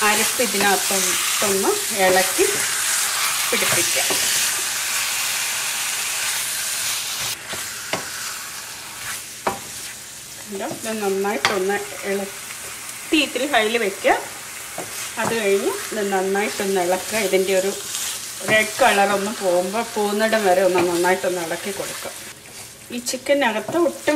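Raw chicken pieces sizzling in hot masala in a stainless steel pan while being stirred and turned with a wooden spatula. The sizzle is strongest for the first several seconds. After that come repeated short squeaking scrapes of the spatula and meat against the pan.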